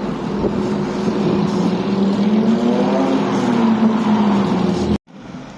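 A car's engine and exhaust running loudly, its pitch rising a little and easing back down, then cutting off suddenly near the end.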